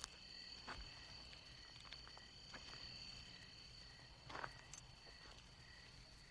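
Faint steady chirring of crickets in a night-time soundscape, with a few soft clicks scattered through it.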